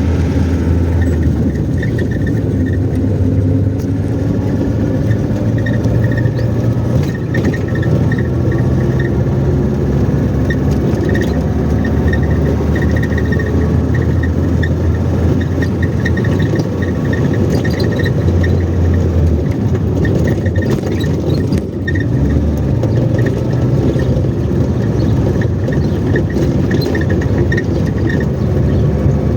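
A car driving: steady engine and road rumble, the engine note shifting a few times.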